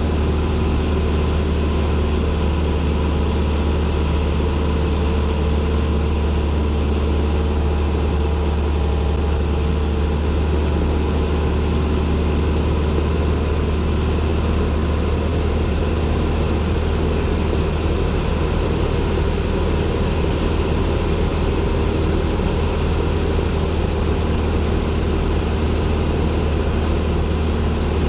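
Single-engine Cessna 172N's four-cylinder Lycoming engine and propeller droning steadily, heard from inside the cockpit; the even, unchanging pitch and level fit cruise flight.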